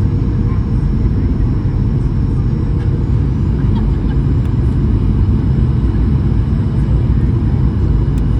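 Steady low rumble of a Boeing 737-800's CFM56 engines and airflow during its arrival, even and unchanging throughout.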